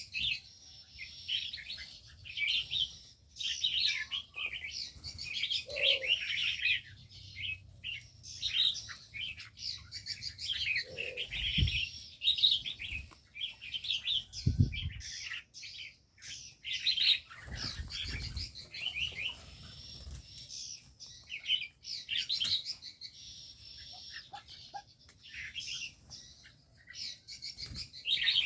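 Many small birds in an aviary chirping continuously over one another, with wings fluttering now and then.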